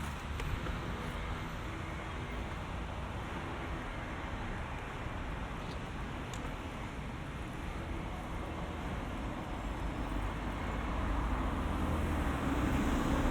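Steady road traffic noise from passing cars, with a low rumble underneath; it grows louder near the end as a vehicle comes close.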